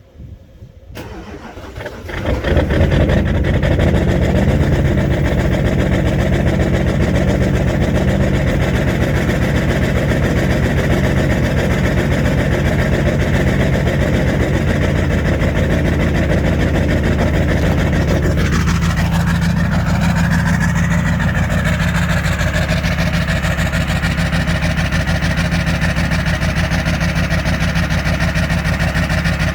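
Duramax diesel engine cold-starting: a click and a brief crank, then it catches about two seconds in and runs at a steady idle. About two-thirds of the way through a falling whine sweeps down and the higher part of the engine sound drops away.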